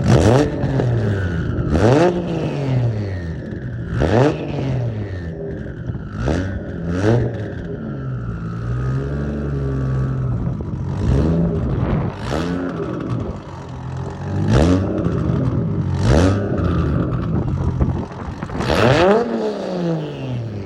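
Turbocharged 1.5JZ inline-six (2JZ block with a 1JZ head) on a 4-inch straight-pipe exhaust, idling between about ten quick throttle blips. Each rev rises sharply and drops straight back.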